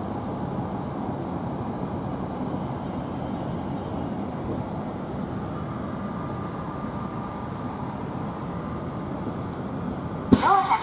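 Steady running noise of a Tohoku Shinkansen train at the station platform. Near the end it is cut by a sudden loud clatter with a short whine.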